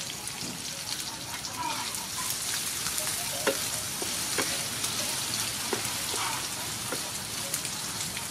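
Sliced sea snail frying in hot soybean oil with chopped garlic: a steady sizzle, stirred with a wooden spatula that knocks against the pan a few times.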